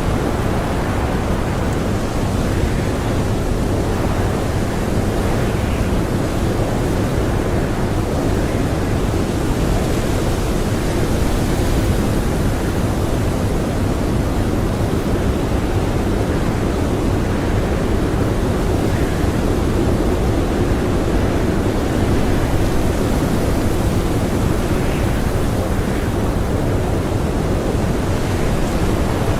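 Strong blizzard wind blowing as a steady, dense rushing noise that swells slightly now and then.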